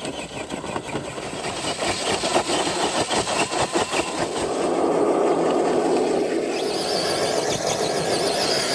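Traxxas TRX4 RC truck's electric motor and drivetrain running, with rapid clicking through the first half, then a steadier rushing running sound.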